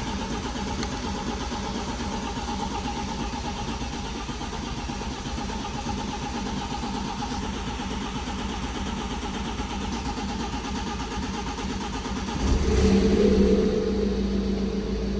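BMW 520d's N47 four-cylinder diesel engine running steadily just after a timing chain replacement. About twelve seconds in, the sound gets louder for a couple of seconds and a steady hum joins it.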